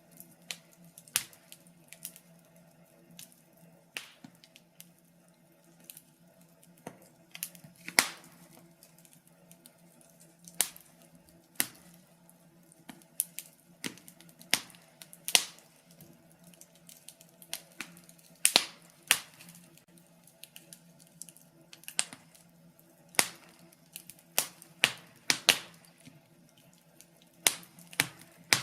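Wood fire crackling in a fireplace: irregular sharp pops and snaps of burning logs, a handful much louder than the rest, over a faint steady low hum.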